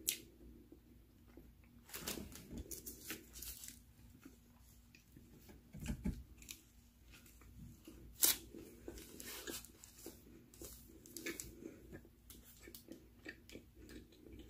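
A person chewing food with close-up mouth sounds, while a paper sandwich wrapper rustles and crinkles in short, irregular crackles and clicks as the sandwich is handled.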